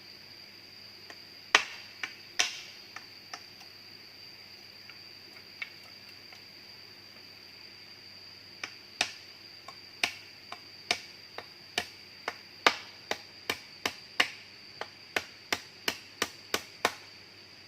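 Sharp hand-tool strikes: a few scattered blows, then a steady run of about two a second, such as a blade or tool working wood. Under them runs a steady high-pitched insect drone.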